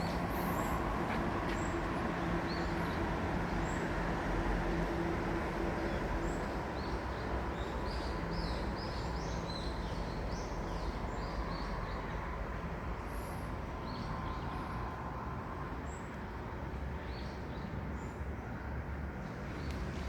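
Small birds chirping, with short high calls that cluster in the middle, over a steady low rumble of distant traffic.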